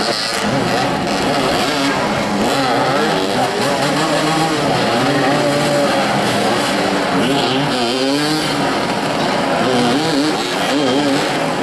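Several motoball motorcycles running and revving at once, their engine pitches rising and falling as the riders accelerate and ease off.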